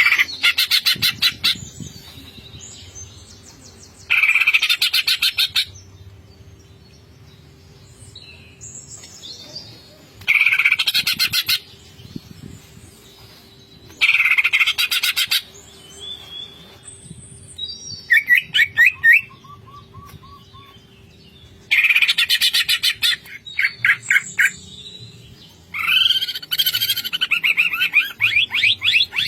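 Green leafbird (cucak ijo) singing in loud bursts of fast, chattering repeated notes, each burst about a second and a half long and coming every three to four seconds, with a few slurred whistled phrases in between.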